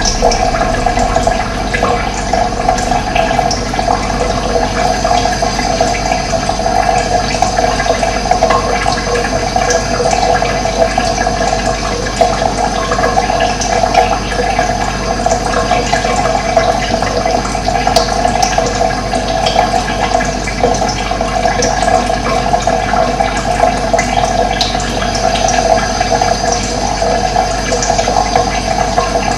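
Running water flowing steadily, an even continuous rush with no pauses.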